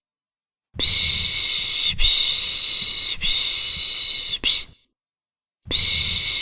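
A voice making long 'shhh' shushing sounds to soothe a baby: three shushes of a bit over a second each, one right after another, a silent gap of about a second, then another shush begins near the end.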